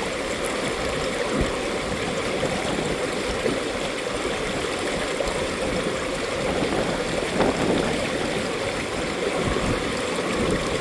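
Mountain valley stream flowing over rocks, a steady, even rush of water.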